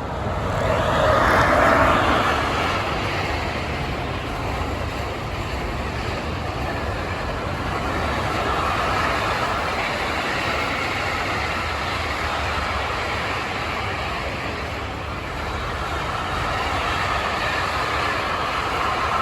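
Freight train passing on the rails. It is loudest about two seconds in, then settles to a steady rolling noise.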